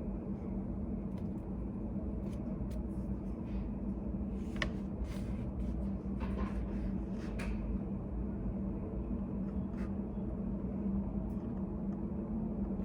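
Study cafe room tone: a steady low hum with scattered faint clicks, taps and brief rustles, several of them clustered around the middle.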